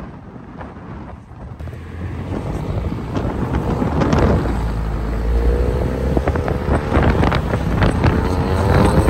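VW Golf GTI with a swapped-in Golf R engine accelerating hard, its engine and exhaust getting louder, with wind rushing over the microphone. Near the end a rising engine note as it revs up.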